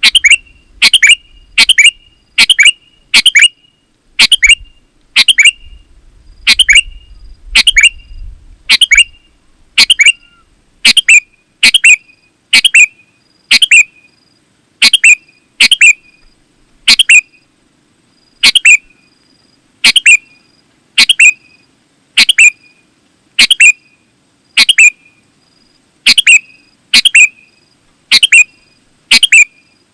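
Sooty-headed bulbul (kutilang) giving loud, short, sharp chirping calls, repeated about once a second and sometimes in quick pairs.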